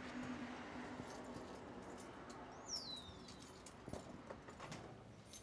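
Quiet outdoor ambience with a single falling bird whistle a little past halfway, and a few soft clicks near the end as the front door handle is worked.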